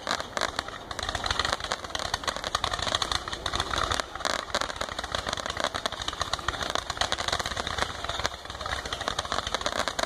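Fan-pattern firework cakes firing a rapid, continuous barrage of shots and crackling stars, the cracks coming too close together to count.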